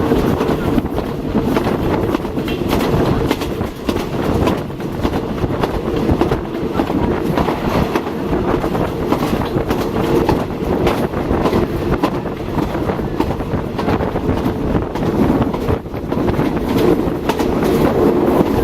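Moving passenger train heard from on board: a steady rumble of the carriage with frequent clicks and knocks of the wheels over rail joints.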